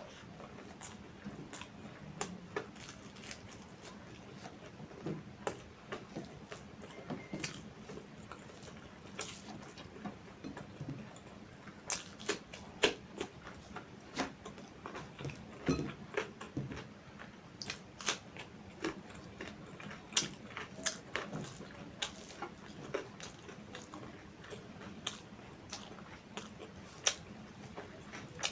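Close-miked eating: chewing and biting, with many sharp, irregular mouth clicks.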